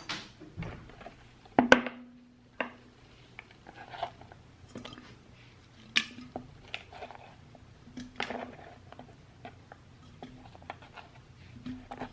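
Kitchen handling sounds: irregular knocks, taps and clicks of food and utensils being handled on a counter, the loudest knock about two seconds in, with a brief ring after it.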